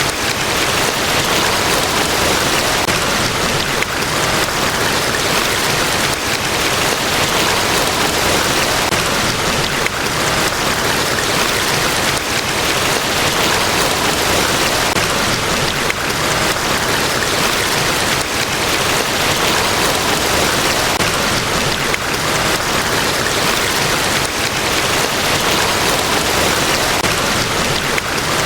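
Large waterfall at Niagara Falls: a steady, unbroken rush of falling water spread from low to high pitches, with no change through the stretch.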